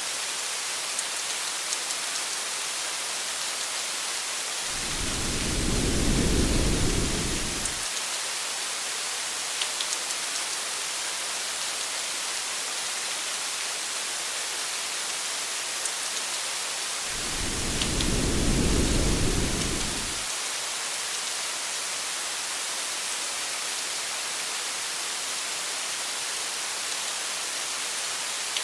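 Steady, even hiss of heavy rain. Two low rumbles of distant thunder, each about three seconds long, come about five seconds in and again about seventeen seconds in.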